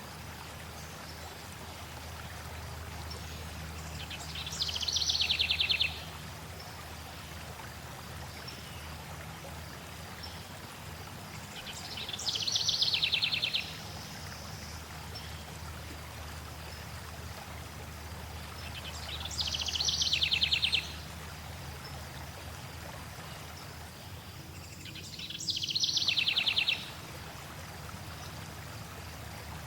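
Flowing water running steadily, with a songbird singing a short rapid trill four times, about every seven seconds; each trill is louder than the water.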